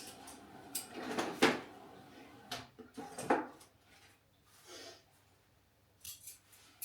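Irregular knocks and clunks of something being handled, the loudest about a second and a half in and again about three seconds in.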